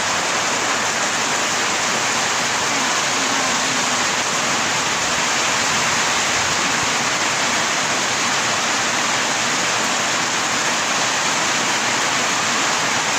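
Heavy rain pouring down, an even, dense hiss that holds steady.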